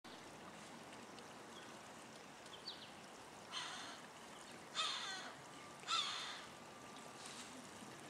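Three harsh bird calls about a second apart, over the steady trickle of a small stream.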